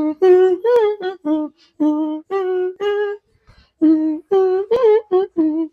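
A voice humming a wordless tune in a string of short, held notes with brief gaps between them.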